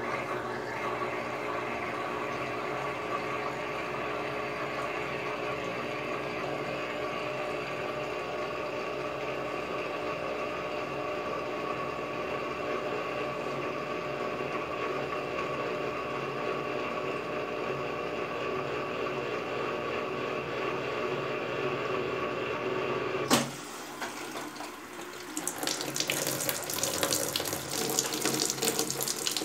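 Brastemp Advantech Wash washing machine running on its wool/extra-delicate cycle: a steady flow of water with an even hum, then a sharp click about 23 seconds in. The sound drops briefly, then water rushes in with a loud hiss as the machine fills.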